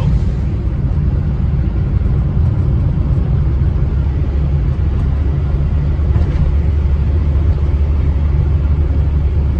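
Austin Allegro's A-series engine and gearbox running at a steady pace on the road, heard from inside the cabin: a steady low drone carrying the A-series whine.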